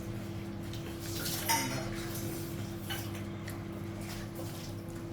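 Dishes and cutlery clinking during a meal, a few short knocks with the loudest about a second and a half in, over a steady low hum.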